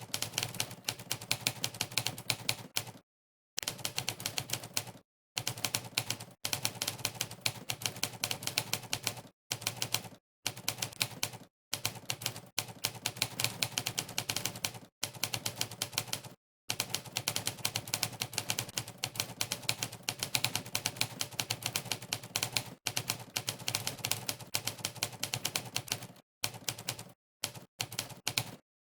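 Monkeytype's typewriter keystroke sound effect, one sharp clack per key press, in fast bursts of typing. The bursts are broken every second or few by brief stretches of dead silence.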